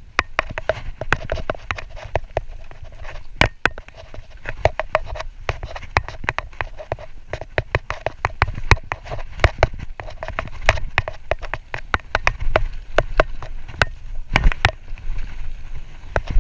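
Mountain bike clattering down a rough dirt trail: rapid, irregular knocks and rattles from the bike over a steady low rumble of tyres and wind on the microphone.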